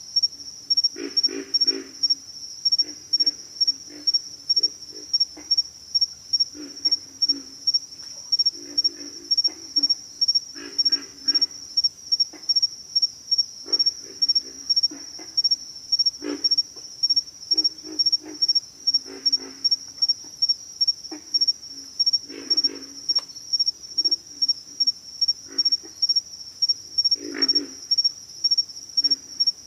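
Pig frogs grunting: low, rattling grunt series come every second or two. Behind them an insect chirps steadily at a high pitch, pulsing about twice a second; this chirping is the loudest sound.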